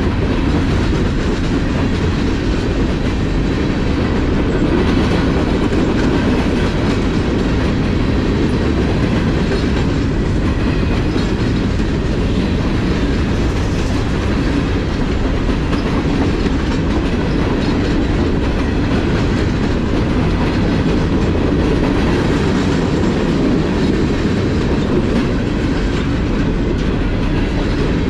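Covered hopper cars of a Norfolk Southern freight train rolling past close by: a loud, steady rumble of steel wheels on the rails.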